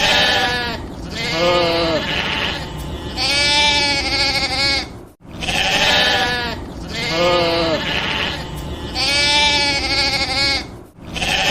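Sheep bleating: a string of loud, wavering bleats, the same sequence heard twice in a row after a brief cut about five seconds in.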